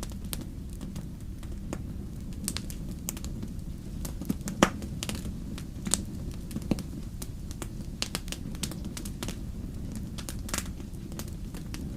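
Wood campfire crackling, with irregular sharp pops and snaps (the loudest about halfway through) over a steady low rumble.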